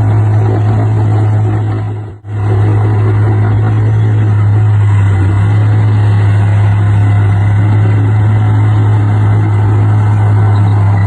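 Heavy diesel engine running steadily with a deep, constant drone. The sound drops out briefly about two seconds in and comes straight back.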